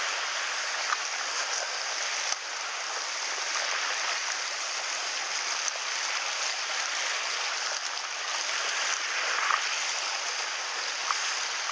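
Mountain stream water rushing steadily over rocks, with a few small clicks now and then.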